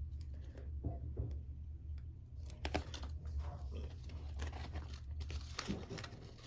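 Paper backing being peeled off a sheet of skateboard grip tape, with irregular crinkling and crackling that gets busier partway through, over a steady low hum.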